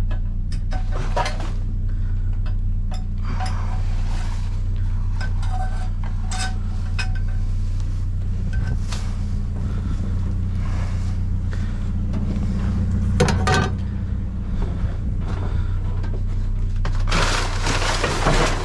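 Scattered clinks and knocks of metal and glass junk being handled while rummaging through a dumpster, with a longer burst of rustling and rattling near the end. A steady low hum of an idling truck engine runs underneath.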